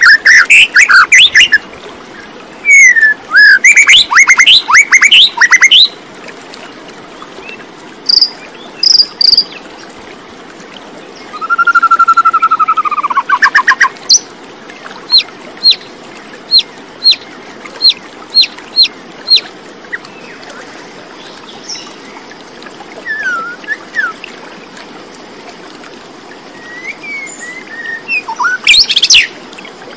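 Birds singing: loud bursts of rapid chirps, a slurred falling whistle about halfway through, and then a slow series of short high notes, with quiet gaps between the phrases.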